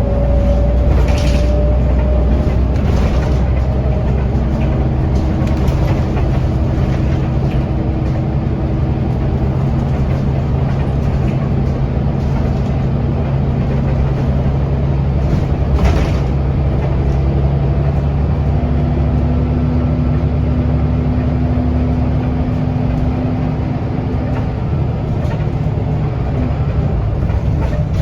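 Scania L94UB bus diesel engine and ZF automatic gearbox running under way, heard from inside the bus: a steady low drone with held drivetrain tones that shift in pitch as the bus changes speed, and two brief knocks, one about a second in and one near the middle.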